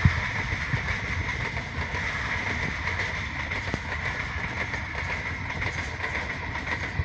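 Passenger train running along the track: a steady rumble and rattle of wheels on rails.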